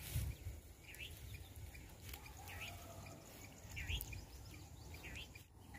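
A bird calling over and over, one short call about every second. Beneath it is a low rumble on the microphone that swells twice.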